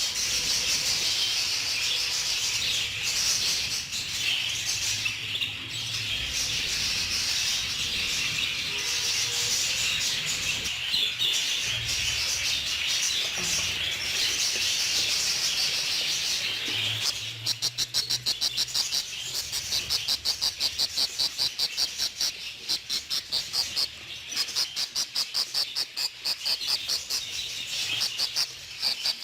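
Budgerigars chattering and warbling together in a continuous dense twitter. About two-thirds of the way through, a fast, even run of sharp high cheeps, about four or five a second, takes over.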